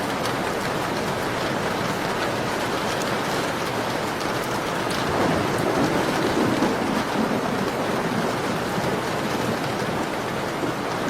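Steady rain falling on a window, an even hiss with scattered drop taps, swelling into a fuller, louder rush about five seconds in before settling back.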